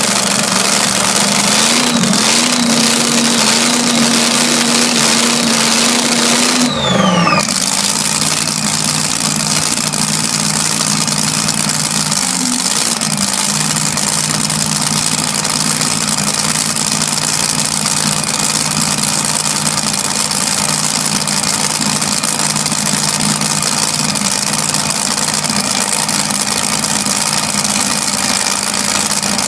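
Hot rod engine idling. About two seconds in, the revs step up to a higher idle and hold there. After a sudden break about seven seconds in, it settles to a lower, steady idle, with one brief blip of the throttle.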